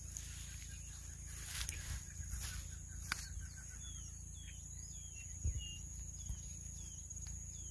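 Rural outdoor ambience: a steady high insect drone, with a bird giving a run of short chirps from about halfway through. A few faint clicks and a soft thump are heard as well.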